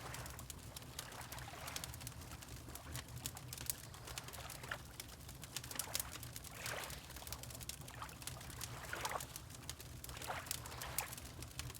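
Water lapping in small, irregular swells over a steady low rumble, with the sharp pops and crackles of a wood fire scattered throughout.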